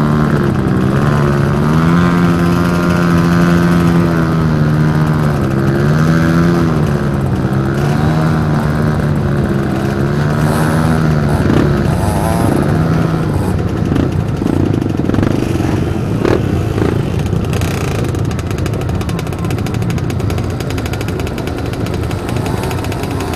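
Trail motorcycle engine running with the throttle opening and closing, its note rising and falling; a little past halfway the clear engine note gives way to rougher, noisier running.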